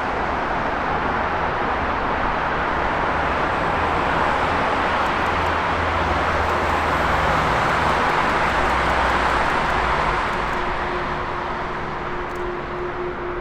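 Jet airliner engine noise: a loud, steady rush that eases a little after about ten seconds, with a steady hum joining near the end.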